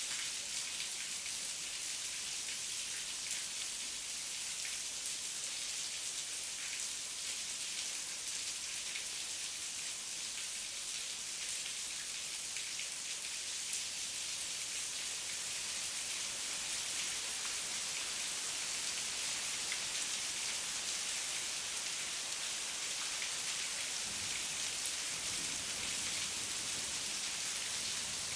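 Heavy rain falling steadily: a dense, even hiss with many individual drop ticks.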